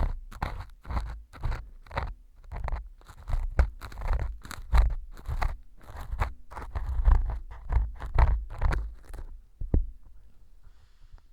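An ear pick scraping and crunching dried fu (baked wheat gluten) glued on as mock earwax, in repeated strokes about twice a second. The glue has set the fu hard, giving a gritty scrape. The strokes stop about nine seconds in, followed by a single sharp tick.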